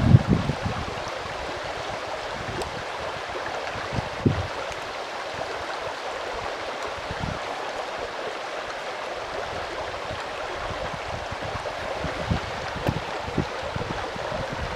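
Steady rushing of a mountain stream, with low bumps of wind on the microphone near the start, about four seconds in, and toward the end.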